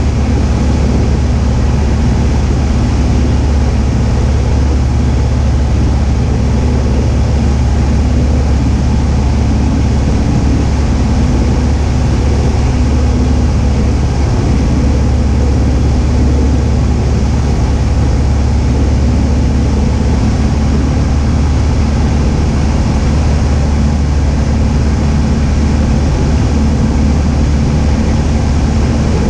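Cessna 172H's Continental O-300 six-cylinder engine and propeller running steadily in flight: a constant loud drone with no change in pitch.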